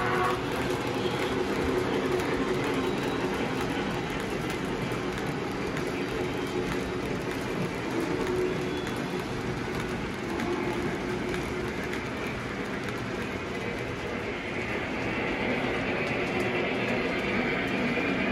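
A train running along the track: a steady, continuous rumble of wheels on rail.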